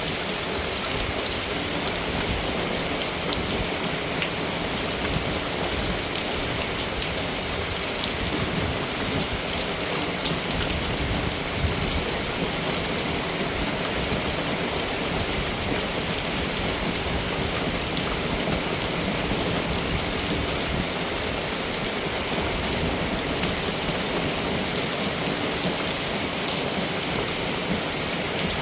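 Steady rain falling on a surface, a continuous hiss with scattered sharp drop ticks.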